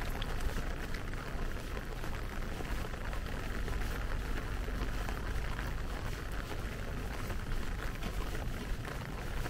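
Steady rain with a dense patter of small drops, over a low steady rumble.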